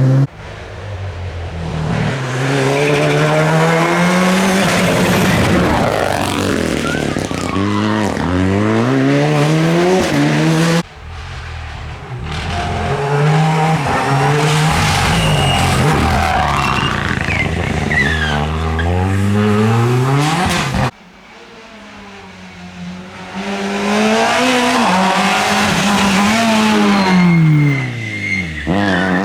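Rally cars at full stage speed, engines revving hard and dropping with each gear change. There are three separate passes, each cut off suddenly, about 11 and 21 seconds in.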